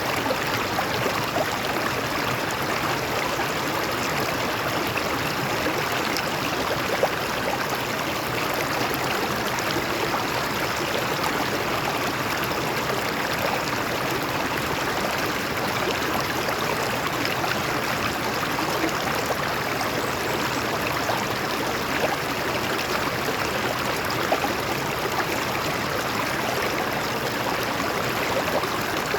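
Water running over rocks in a stream, a steady rushing and splashing with faint small gurgles.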